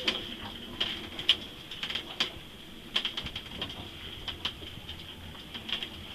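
Sailing yacht moored in strong wind and waves, straining at its dock lines. Irregular sharp knocks and creaks come over a steady high-pitched whistle that keeps swelling and fading.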